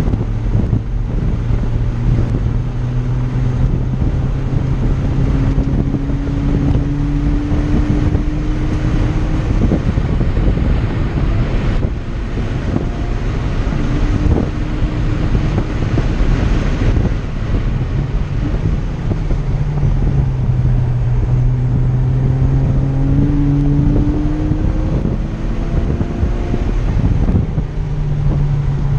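Porsche Cayman R's flat-six engine running hard on track, its pitch climbing slowly through long pulls and dropping back several times, over constant wind and road noise.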